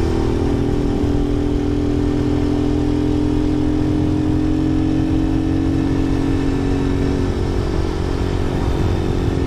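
Lifan KP Mini 150's single-cylinder engine running under way at a steady cruise, with rough wind rush on the microphone; its pitch eases slightly lower over the first several seconds, then holds.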